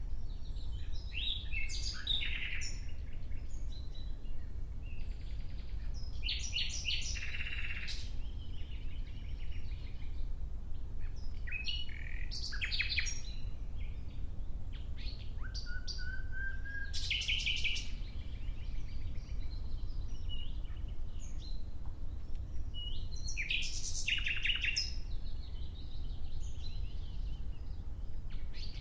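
Nightingale singing: short phrases of rapid repeated notes and trills, a few seconds apart, one with a rising whistle, over a steady low background rumble.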